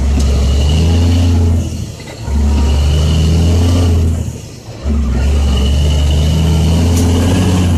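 Caterpillar C10 inline-six diesel in a loaded dump truck pulling hard through the gears. The revs climb three times, with a brief drop in sound at each of the two gear changes between them.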